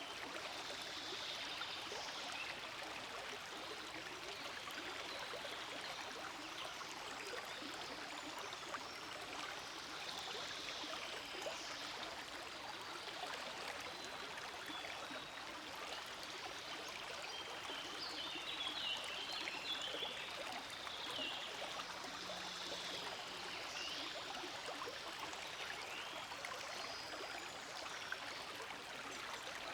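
Forest stream flowing over rocks: a steady, even babbling rush of water. A few faint high chirps come through about two-thirds of the way in.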